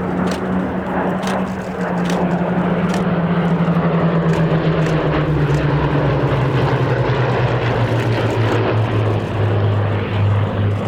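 Grumman F8F Bearcat's Pratt & Whitney R-2800 radial engine and propeller on a flypast, a loud drone whose pitch slides steadily down as the aircraft passes and draws away.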